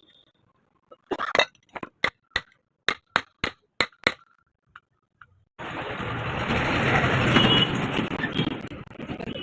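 A run of about ten sharp metallic clinks in quick succession, then, about five and a half seconds in, a loud steady rushing noise starts and swells.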